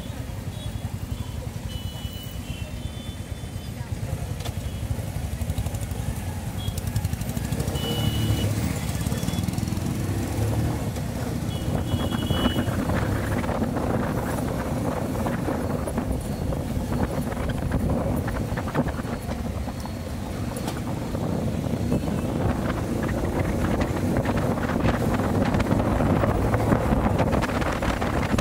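Bajaj CT100 motorcycle's 100 cc single-cylinder four-stroke engine idling, then pulling away about eight seconds in and running at road speed. Wind noise on the microphone grows as it speeds up.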